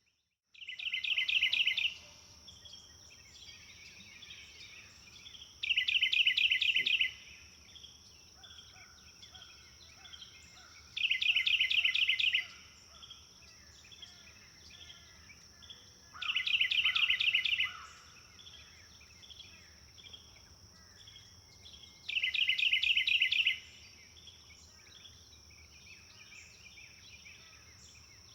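A songbird repeats a short, rapid trilled phrase five times, about every five seconds. Softer chirps from other birds and a steady high-pitched tone run underneath.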